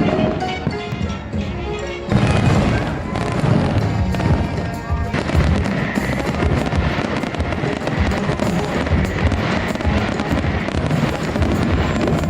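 Fireworks bursting and crackling in a dense, continuous barrage over the show's music, heavier from about two seconds in.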